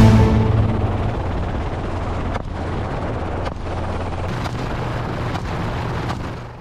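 Helicopter running: a steady low hum under dense rushing noise, with a few faint sharp cracks about two and a half and three and a half seconds in. It fades out near the end.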